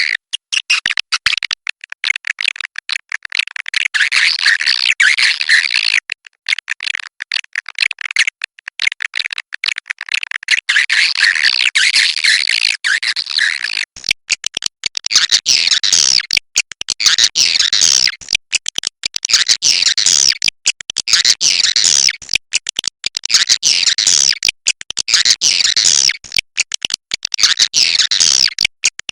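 Swiftlets twittering in a dense, overlapping chorus of high, fast chirps. It thins for a few seconds about a third of the way through, then fills in again.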